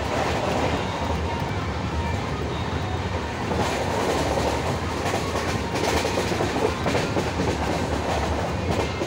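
Steady running noise of a moving passenger train heard from inside the coach: a continuous rumble with the wheels clacking over the rail joints.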